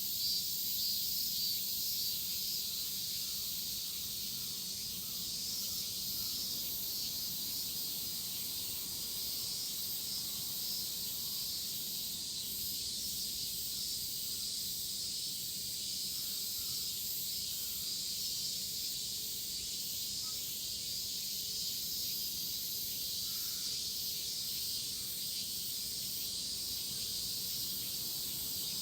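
Chorus of cicadas shrilling, a steady unbroken high hiss.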